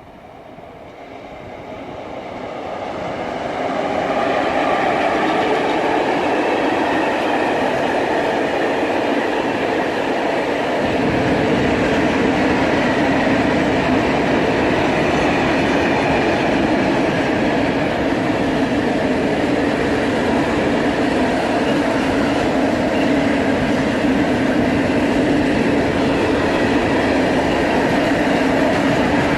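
Freight train passing on the line: wheel and wagon noise swells over the first few seconds, then holds as a loud, steady rumble. The deep low rumble grows heavier about a third of the way through.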